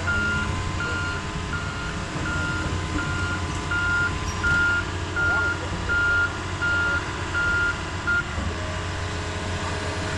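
Heavy equipment's backup alarm beeping steadily at a single pitch, about a dozen beeps at roughly one every 0.7 s, stopping about eight seconds in, over the low hum of a diesel engine: the machine is reversing.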